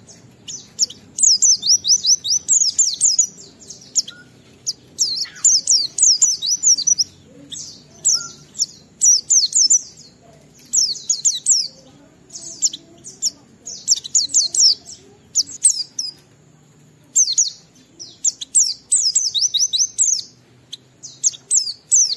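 White-eye (pleci) in full 'ngalas' song: rapid, high twittering phrases of quick sliding notes, about a second each, repeated one after another with short pauses.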